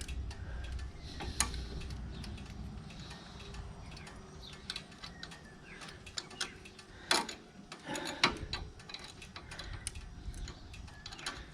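Scattered metallic clicks and clinks of tools and parts being handled while a motorcycle's gear shifter is refitted, with a few sharper knocks about a second in and again around seven and eight seconds in.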